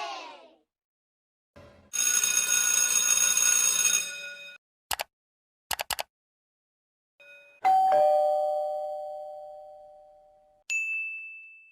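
A string of separate sound effects. First a bright ringing tone over a hiss lasts about two and a half seconds, then come a few sharp clicks. Then a two-note doorbell chime goes "ding-dong" and rings away slowly, and a short high ding sounds near the end.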